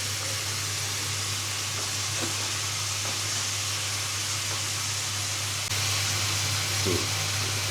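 Chicken, onions and green pepper frying in butter and oil in a pan, a steady sizzle that gets slightly louder about three-quarters of the way through, over a steady low hum.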